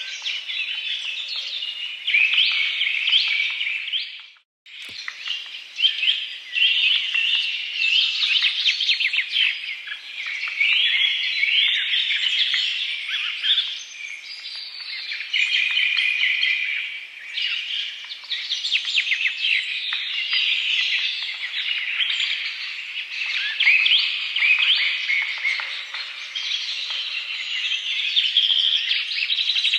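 A dense chorus of many birds chirping and calling without pause. The sound cuts out abruptly for a moment about four and a half seconds in, with a click, then resumes.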